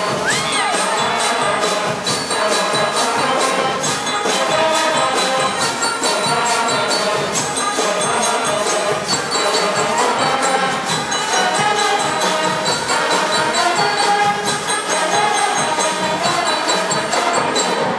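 A band playing music with a steady beat and jingling percussion.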